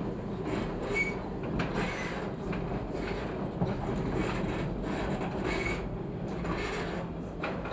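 Chicago 'L' rapid transit train running over a junction of switches: a steady rumble of wheels on rail with irregular clacks as the wheels cross joints and switch frogs. Brief wheel squeals twice, about a second in and again past the middle.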